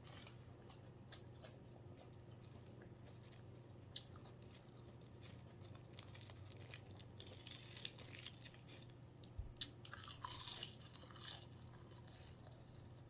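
A person chewing and crunching food close to the microphone, mukbang-style: scattered soft clicks at first, then louder, denser crunching in the second half. A low steady hum runs underneath.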